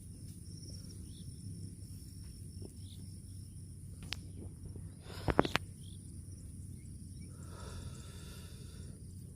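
A steady high insect buzz over a low rumble, with a few sharp knocks a little after halfway and a short pitched animal call near the end.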